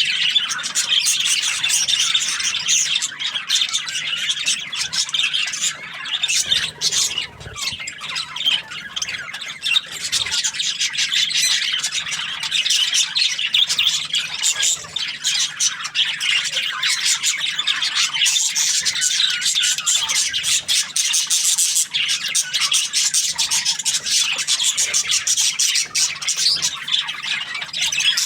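Budgies (budgerigars) chirping and chattering continuously in a dense, rapid stream of high squawks and tweets, the sound of a contented flock.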